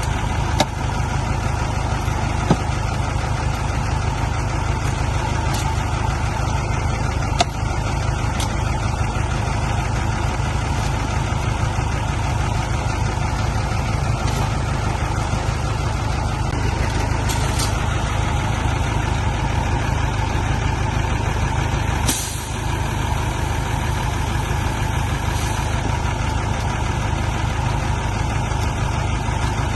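Heavy diesel engine of a truck or bulldozer running steadily with a deep low rumble, with a few sharp knocks in the first several seconds and a short hiss about 22 seconds in.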